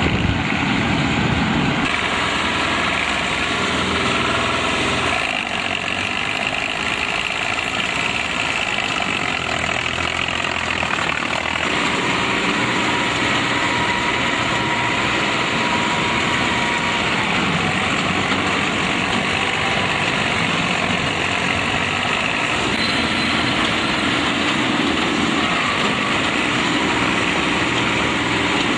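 Combine harvester engine running steadily, its tone shifting a few times in the first dozen seconds.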